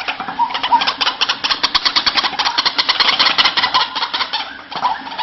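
White-breasted waterhen (ruak-ruak) calling: a loud, rapid run of harsh repeated notes, about ten a second, which thins out near the end.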